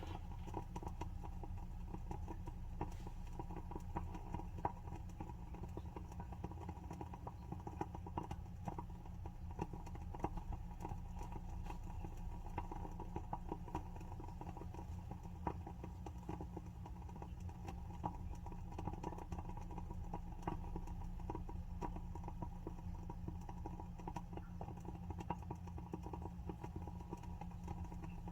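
WoodWick candle's wooden wick burning with a soft, irregular crackle, a close-set run of small pops like a tiny wood fire.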